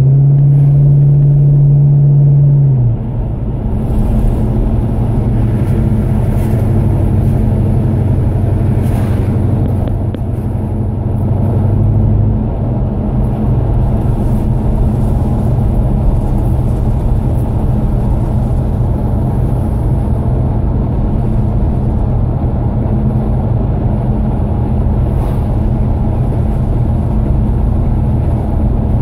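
Classic muscle car's engine and exhaust, heard from inside the car while cruising. A strong steady engine note holds for about three seconds and then drops away. A lower steady drone follows, and after about twelve seconds it gives way to a low rumble with road noise.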